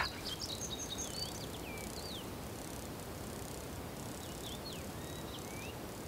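Outdoor ambience: a steady faint hiss with short high chirps and whistled glides from a small bird, in a cluster during the first two seconds and again about four to five and a half seconds in.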